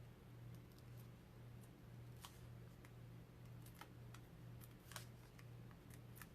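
Near silence over a steady low hum, with scattered faint clicks and ticks from paper card pieces being handled and set in place.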